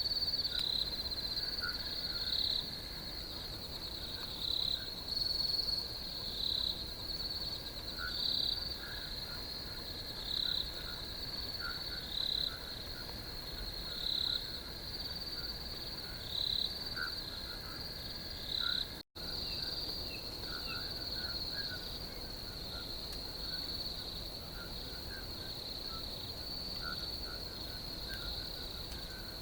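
Crickets chirping: a steady high trill with a louder chirp repeating about every two seconds, plus fainter short lower calls. The sound drops out completely for a moment about two-thirds of the way in, and after that the repeating chirp is gone and only the trill and lower calls go on.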